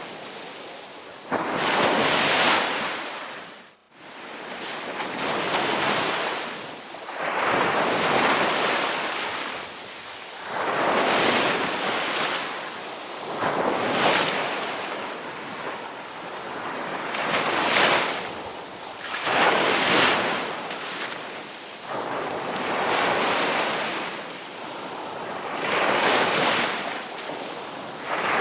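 Ocean waves breaking and washing ashore, the surf swelling and falling away every two to three seconds, with a brief dropout about four seconds in.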